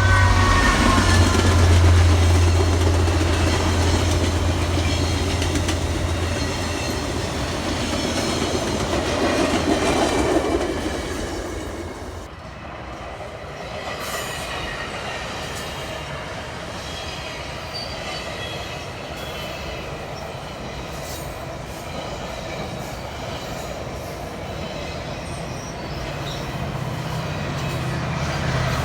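A train passing: a diesel locomotive's low engine drone fades over the first few seconds, then the cars roll by with wheels squealing and clicking over the rail joints. A low engine drone builds again near the end.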